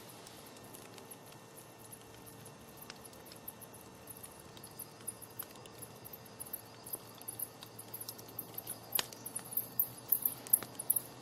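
Campfire crackling with scattered sharp pops, a loud snap about nine seconds in, while crickets chirp in a rapid high pulsing that grows louder toward the end.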